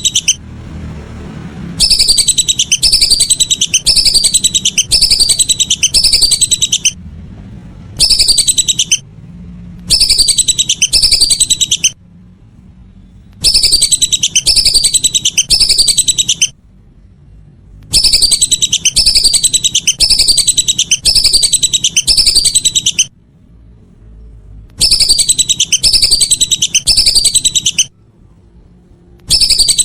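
Lesser whistling ducks (belibis) calling: rapid strings of high whistled notes in bursts of one to five seconds, separated by short pauses. The phrases repeat almost identically, like a looped call recording used to lure the birds.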